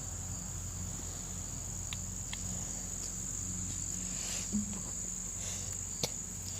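Insects trilling outdoors in one steady, unbroken high-pitched drone, over a low steady hum with a few faint clicks.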